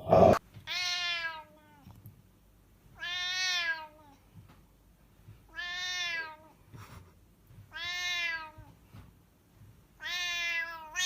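A domestic cat meowing five times, evenly spaced, each meow a single drawn-out call that rises and falls in pitch. A brief loud noise comes right at the start.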